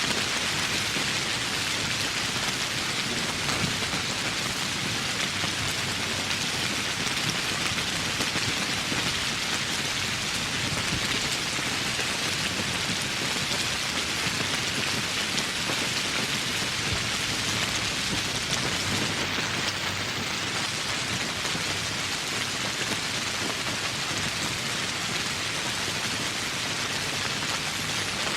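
Steady heavy rainfall, a dense even hiss of drops striking surfaces, unchanging throughout.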